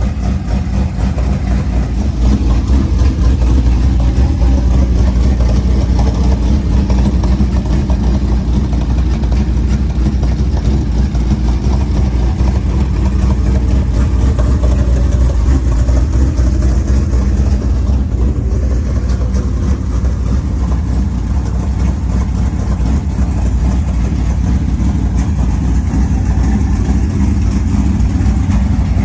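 Dirt late model race car's V8 engine idling loudly and steadily.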